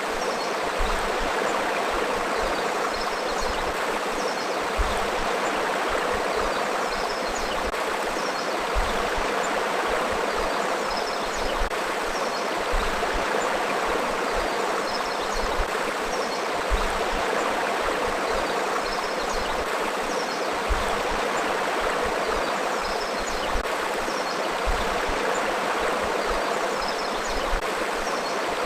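Forest river flowing steadily over rocks, an even rushing and babbling of water, with faint short high chirps every few seconds.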